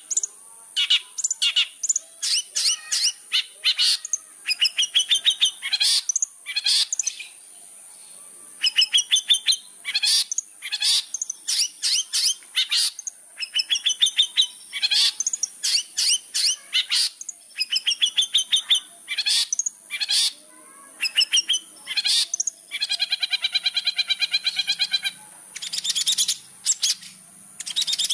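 Long-tailed shrike singing a fast, varied song of sharp repeated chirps in quick runs, with a harsh, drawn-out note lasting about two seconds near the end. This is the bird in full, energetic song.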